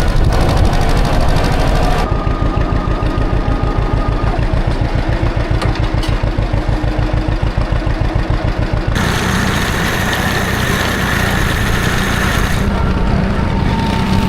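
John Deere tractor engine running across several cut-together shots. In the middle stretch it chugs with a quick, even pulse, and near the end it runs steadier.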